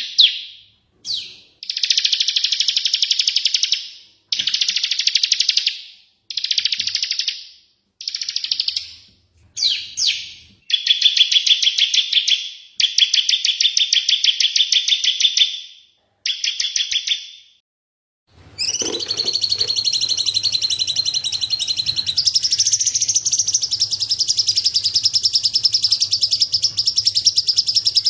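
Recorded songbird calls from a masteran mix of cililin, fighting tree sparrows, ciblek (bar-winged prinia) and cucak cungkok. Rapid, high, buzzy trills come in separate bursts of a second or two each, then after a short silence about two-thirds of the way in a continuous fast chattering takes over.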